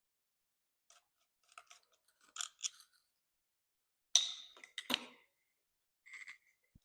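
Light clicks and rattles of small plastic and metal parts as a motorcycle twist-throttle assembly is taken apart by hand. There is a scatter of soft clicks, then the sharpest two clacks about four to five seconds in.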